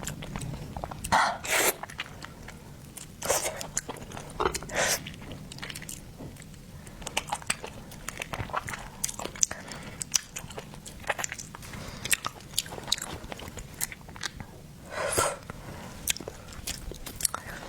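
A person eating seafood close to the microphone: chewing and biting, with many small wet clicks and a few louder bursts scattered through.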